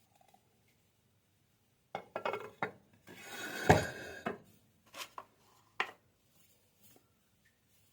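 A handful of knocks and clatters of hard objects being handled and set down, with a short noisy rustling stretch about three seconds in that holds the loudest knock.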